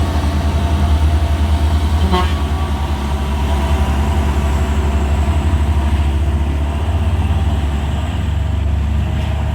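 A heavy truck's diesel engine running with a steady, pulsing low drone. A short horn toot comes about two seconds in.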